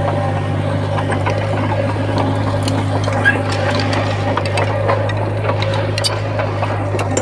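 Komatsu bulldozer's diesel engine running steadily under load, with scattered clanks and clicks from the machinery and tracks.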